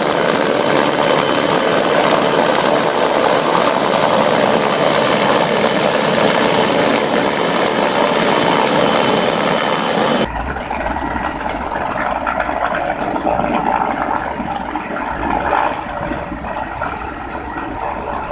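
Helicopter engine and rotor noise, loud and steady, cutting off abruptly about ten seconds in to a quieter engine-like rumble with a low hum.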